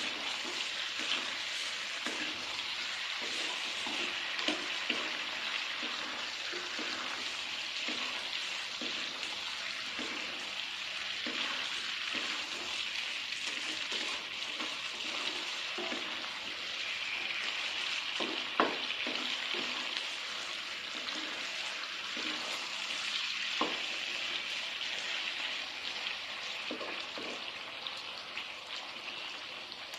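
Food sizzling in a hot frying pan, a steady hiss with scattered clicks and scrapes of a utensil being stirred through it; a sharper knock about 18 seconds in.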